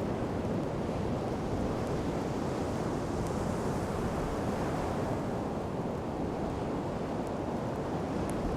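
Sea waves washing steadily on a sandy shore, with a few sharp crackles from a wood campfire near the end.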